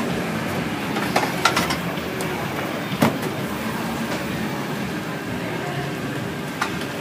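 Tow truck engine idling steadily, with a few sharp knocks about a second in, around three seconds in and near the end.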